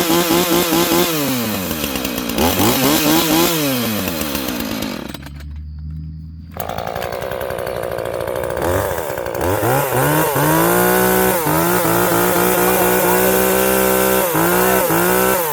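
Husqvarna two-stroke gas chainsaw revving up and back down twice, dropping to a low idle about five seconds in, then revved again and held at high speed with a few brief dips near the end.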